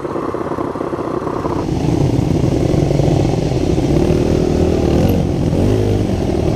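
Dirt bike engine revving and accelerating, getting louder about two seconds in, with its pitch rising and falling after that.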